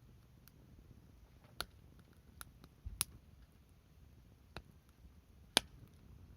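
Firewood crackling as it burns: five or six sharp, scattered pops, the loudest about five and a half seconds in.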